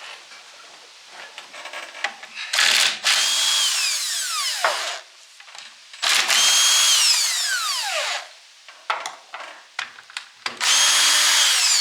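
Impact wrench run in three bursts of about two seconds, each ending with the motor winding down in a falling whine, as it backs out bolts on an old horizontal milling machine.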